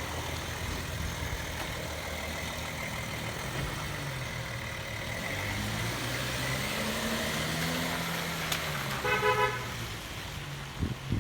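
Audi Q7 driving off, its engine note rising and falling, with a short horn toot about nine seconds in.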